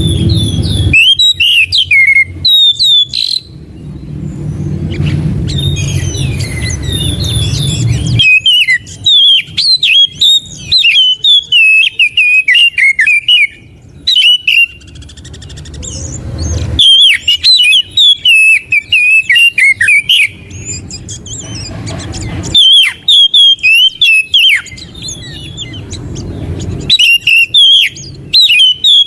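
Oriental magpie-robin singing: bursts of rapid, varied whistled phrases, with a low rumble in the gaps between the bursts.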